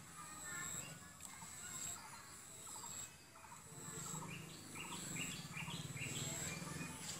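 Birds chirping and calling, with a quick run of repeated calls in the second half over a steady thin high-pitched tone.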